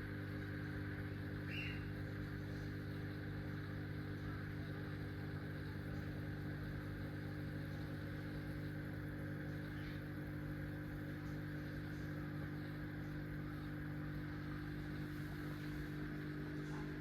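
Steady electrical hum made of several even pitches, with one brief faint chirp about a second and a half in.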